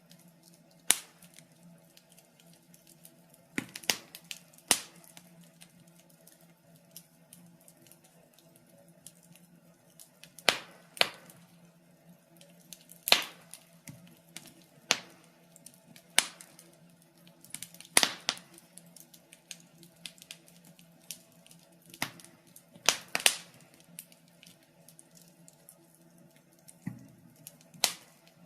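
Wood fire in a fireplace crackling: sharp, irregular pops and snaps come every second or two, some much louder than others, over a faint steady low hum.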